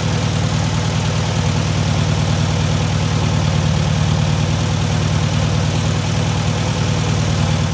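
Freshly rebuilt VW 1600cc air-cooled flat-four engine running steadily on its first run.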